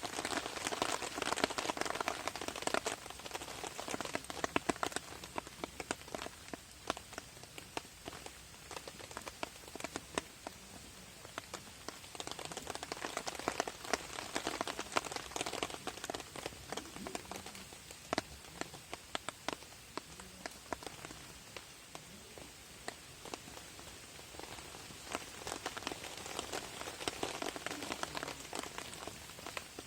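Rain drumming on a camp tarp: a dense patter of drops, swelling heavier and easing off in waves.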